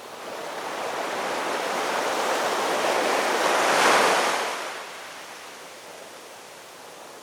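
Ocean waves breaking on a shore: one wave's wash builds for about four seconds, peaks and dies away, leaving a lower steady surf hiss before the next wave starts to rise near the end.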